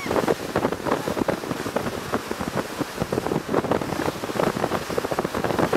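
Wind buffeting the microphone on the deck of a moving boat, an uneven gusty rush over the sound of water and the boat.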